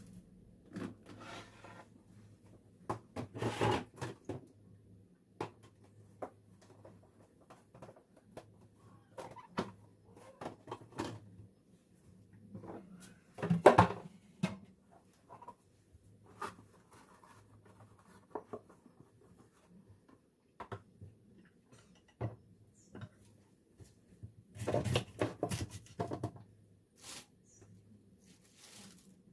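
Scattered knocks, clicks and clatters of kitchen items being handled, in irregular bursts with the loudest clusters near the middle and about four seconds before the end, over a faint low hum.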